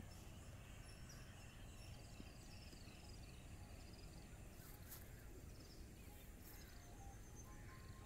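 Faint birds calling: a run of short, high, falling chirps repeated for a few seconds, over a low steady rumble.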